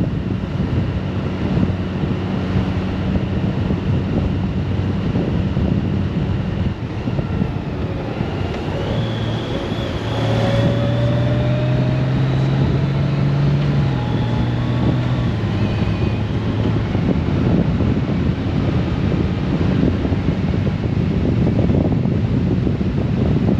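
Wind rushing over the microphone with the steady road and engine noise of a Honda Gold Wing DCT motorcycle under way. From about nine seconds in, a deeper steady hum with a slowly rising whine joins for several seconds, then fades.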